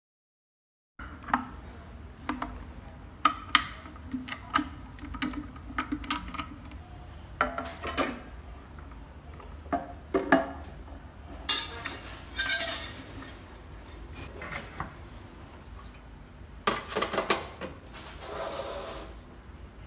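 Repeated clinks and knocks of hard parts being handled, like dishware or machine fittings, over a steady low hum. Twice, near the middle and again near the end, there is a longer rushing, pouring-like noise.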